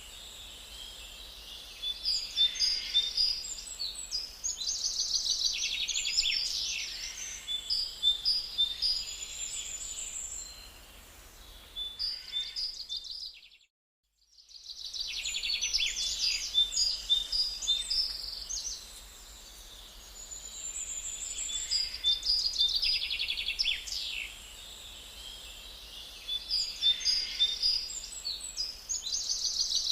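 Several songbirds singing and chirping, with trills and short repeated notes. The sound cuts out completely for about a second near the middle, then the song resumes.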